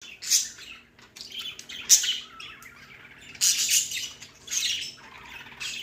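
Budgies chirping and chattering in irregular bursts of high, squeaky calls, over a faint steady low hum.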